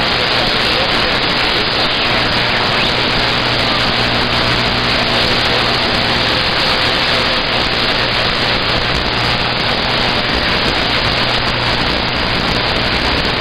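Steady static hiss from a CB radio receiver between transmissions, with a faint low hum underneath.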